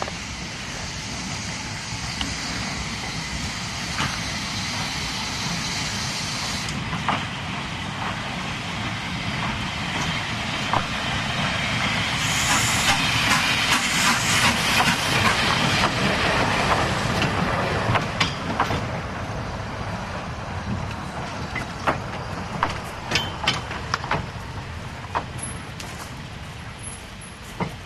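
Isle of Man steam railway locomotive and train running, with a louder hiss of steam in the middle and a string of sharp clanks and knocks toward the end.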